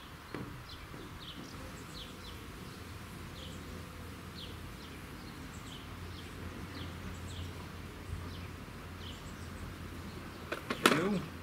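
Garden ambience: a bird giving short, high, falling chirps every second or so over a low steady hum. A brief burst of a man's voice comes near the end.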